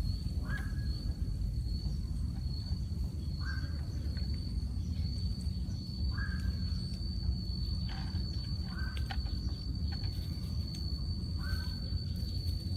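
Rural outdoor ambience: a bird gives a short call about every three seconds over a steady high-pitched whine, with a low rumbling noise underneath.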